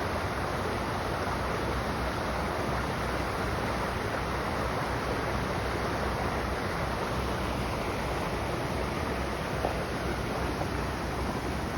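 Steady rush of flowing river water, an even hiss without a break.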